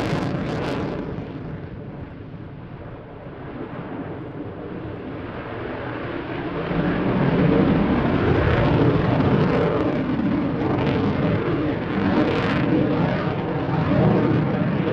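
Eurofighter Typhoon's twin turbofan jet engines in display flight. The jet noise dies down to a lower rumble, then swells again from about six seconds in and stays loud as the fighter comes back past.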